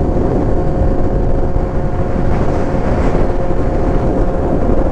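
2023 Kawasaki Z900's inline-four engine running at a steady cruising speed, its pitch holding level, with wind rush over the microphone.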